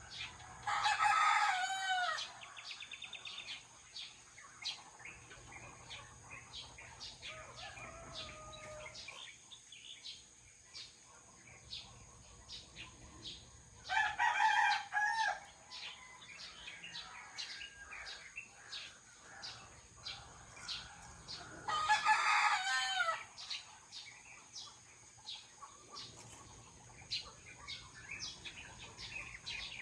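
Roosters crowing three times, each crow lasting about two seconds: near the start, about fourteen seconds in, and about twenty-two seconds in. Between the crows, small birds chirp with short, high notes.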